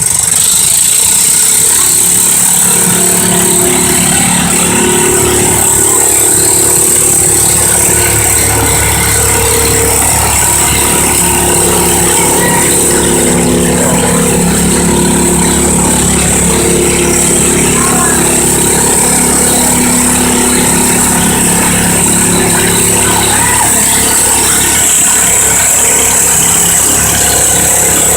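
International Harvester Cub Cadet garden tractor's engine running hard and steady at high revs while pulling the weighted sled, its pitch wavering slightly under the load.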